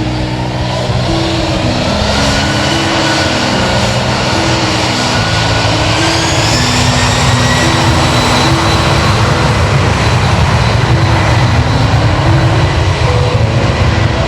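Boeing 767-300ER's twin turbofan jet engines spooling up: a rising whine that levels off about halfway through, under a rushing engine roar that grows steadily louder. Background music with steady notes plays underneath.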